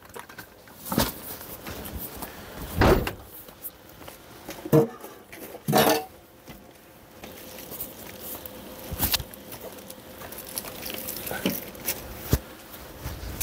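Camping gear being packed away by hand: folding chairs and tableware knocking and clattering in about half a dozen separate bumps spread over several seconds.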